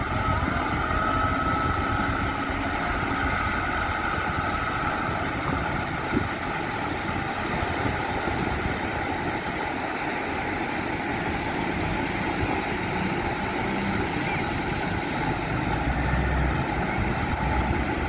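Heavy machinery's diesel engine running steadily, as a wheel loader or garbage truck works the beach, with a single short knock about six seconds in.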